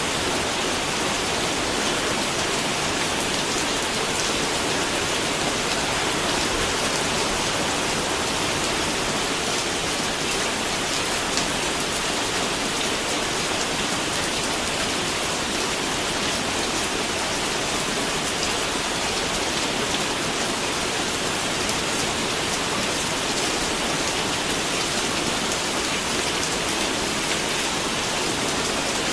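Steady rain falling, an even hiss of many drops hitting a surface, with no thunder or breaks.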